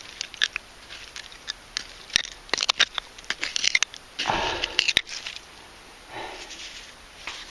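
Irregular clinks and clicks of broken and melted glass being dug through and handled in a bottle dump, with a longer crunching scrape a little past four seconds in and a shorter one around six seconds.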